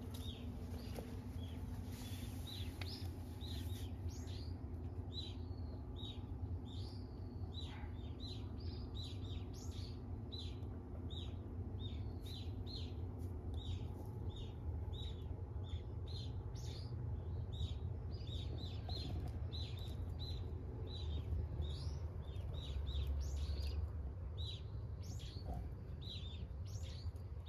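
Small birds chirping over and over, about two short high calls a second, over a steady low rumble.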